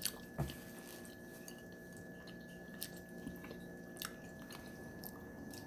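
Quiet chewing of food with a few faint clicks and taps, over a steady faint background hum.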